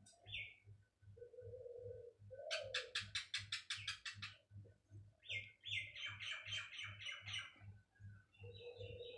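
Small birds chirping: a quick run of about a dozen sharp chirps, then another burst of chirps a couple of seconds later, with some lower calls between them. A faint low pulse repeats steadily underneath, about three times a second.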